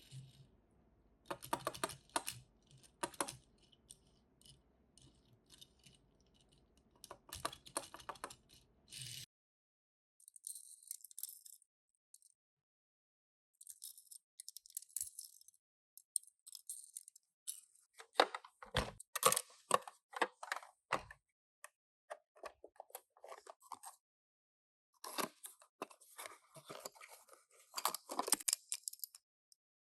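Small handling sounds of unboxing Tomica die-cast toy cars: cardboard and plastic packaging rustling and tearing, mixed with sharp clicks and rattles of the small cars. They come in irregular bursts, with brief complete silences about twelve seconds in and again past twenty-four seconds.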